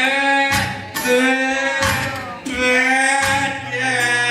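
Live song: a male voice sings long held notes over a band, with sharp accented hits from the guitar or percussion cutting through.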